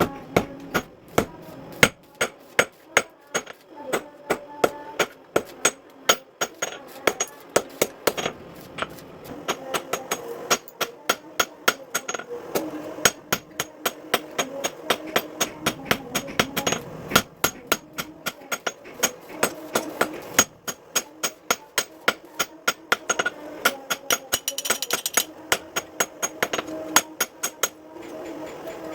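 Hammer blows on steel on an anvil while forging a sickle blade: a long run of sharp, ringing strikes, about two to three a second, broken by short pauses.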